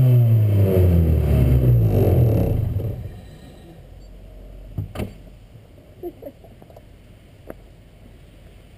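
Car engine revving hard in a burnout, its pitch swinging up and down as the drive wheels spin. About three seconds in it drops away suddenly to a low, quiet level with a few small clicks.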